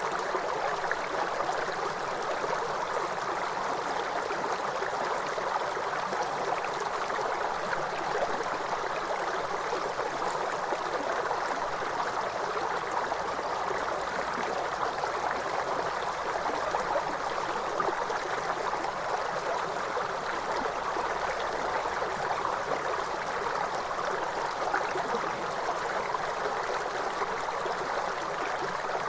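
Water cascading over a waterfall, running steadily and evenly throughout.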